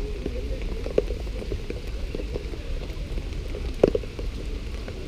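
Rain falling close to the microphone: a dense scatter of small drop taps over a steady low noise, with two louder drop hits about a second and nearly four seconds in.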